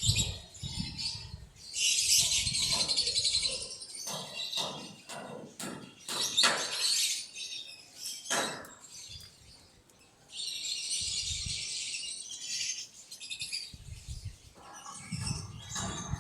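Quail chirping in two dense stretches, with short clicks and knocks between them.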